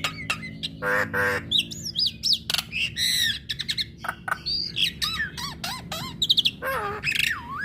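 Female Javan myna singing: a rapid, varied run of sharp clicks, harsh squawks and whistled notes that glide up and down.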